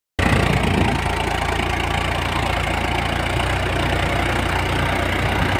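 Tractor diesel engine running steadily at idle, with a low, even rumble.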